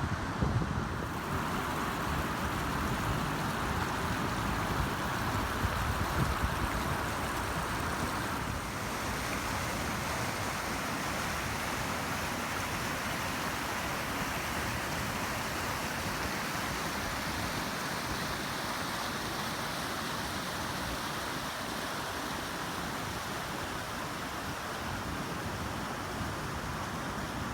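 Wind buffeting the microphone over a steady rushing hiss, with stronger gusts for about the first eight seconds, then an even level.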